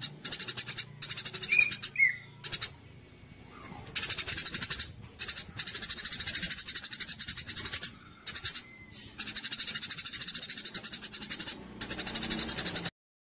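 Songbird singing rapid, high buzzy trills in repeated bursts of one to two seconds with brief pauses, plus a couple of short whistled notes about two seconds in. The song cuts off suddenly near the end.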